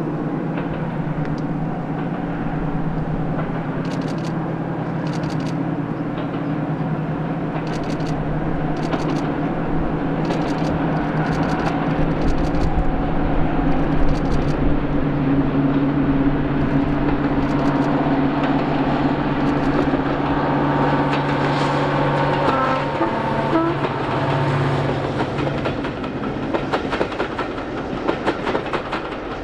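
Diesel train passing: a steady engine drone that grows louder toward the middle, with scattered clicks of wheels over rail joints and a quick clickety-clack near the end as the train goes by.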